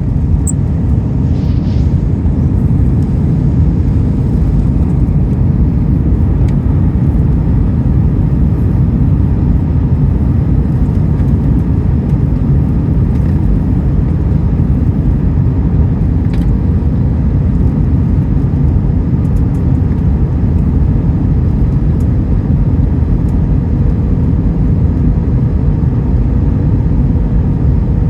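Steady low rumble of an Airbus A321's passenger cabin in flight: engine and airflow noise, with a faint steady hum that grows a little stronger near the end.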